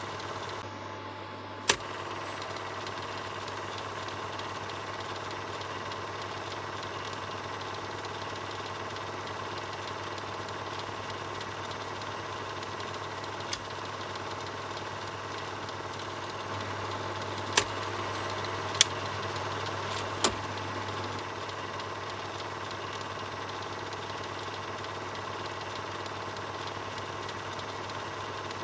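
Film projector running steadily with a low hum, broken by a few sharp clicks: one near the start and three close together a little past the middle.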